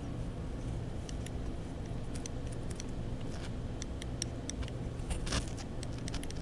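Light, scattered clicks and taps of small thermostat parts being handled, over a low steady hum.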